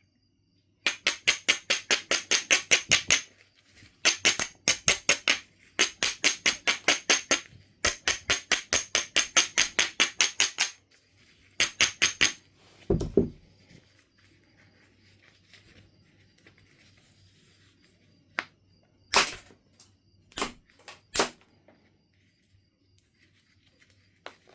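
Knife River Flint being knapped: several runs of quick, even scraping strokes, about five a second, typical of abrading a platform edge. A single heavier knock follows, then a few sharp clicks of stone on stone.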